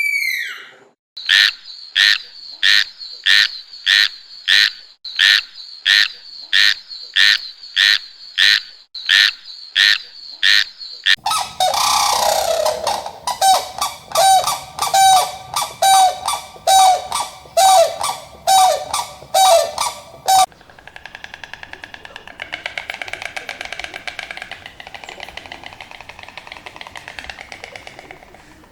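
Animal calls in three back-to-back clips. First comes a fast series of short, sharp calls, about two a second and evenly spaced. Next a lower, honking series of calls over a noisy background, and after about 20 seconds, fainter chattering calls.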